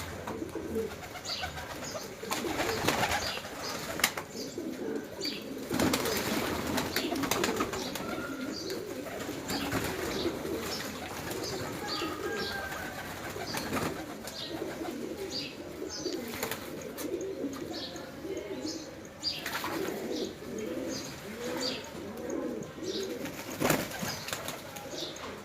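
Fancy pigeons cooing continually, many overlapping low coos, with small birds chirping high above them and a few short flutters of wings.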